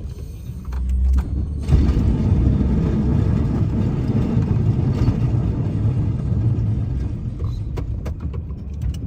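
Snowplow truck running with a heavy, steady low rumble that swells about two seconds in and holds.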